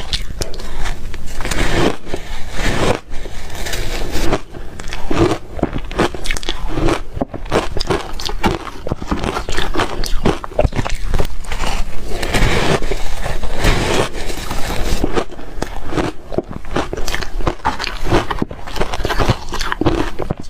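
Ice being bitten and chewed close to the microphone: a continuous, irregular run of loud crunches and crackles.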